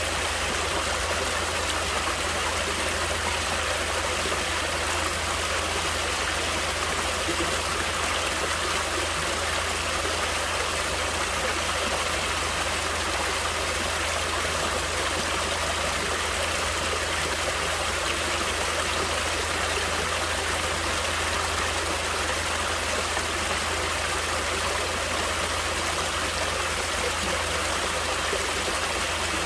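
Natural water flowing steadily: an even, unbroken rushing sound that does not change.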